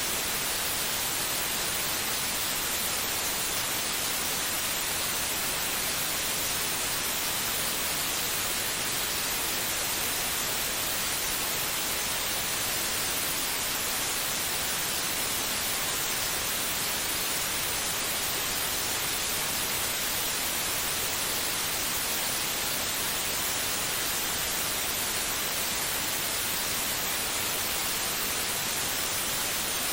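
Steady white noise: an even, unbroken hiss, brightest in the high frequencies, played to calm a baby to sleep.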